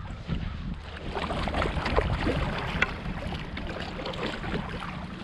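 Canoe being paddled: irregular water splashes and drips around the paddle and hull, with low wind rumble on the microphone.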